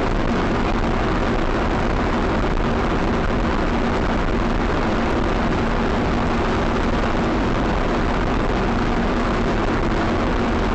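Steady, loud rushing noise of a moving vehicle as picked up by a dashcam microphone, with a faint constant low hum underneath.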